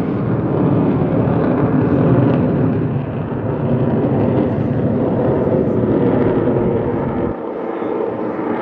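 Loud, steady jet engine noise from Blue Angels F/A-18 Super Hornet jets during the diamond formation takeoff. Near the end the deepest rumble drops away suddenly while the higher noise goes on.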